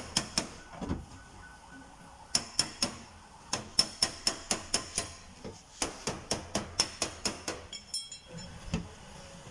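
Body hammer tapping on a steel van door panel in quick runs of strikes, several a second, each with a short metallic ring.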